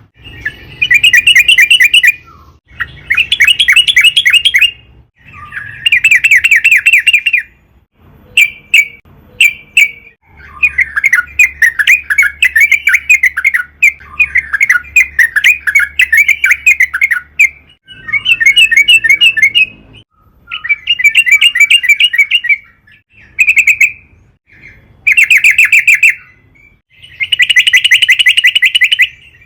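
Yellow-vented bulbul (trucukan) singing loudly in fast, bubbling chattering phrases, each a second or two long and repeated after short pauses, with a longer unbroken run of chatter in the middle.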